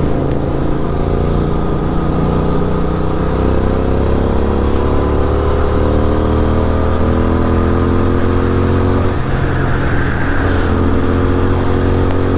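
Kawasaki Z900 inline-four motorcycle through an SC Project exhaust, accelerating in gear with its pitch rising steadily for about nine seconds, then a brief dip at an upshift before it runs on steadily.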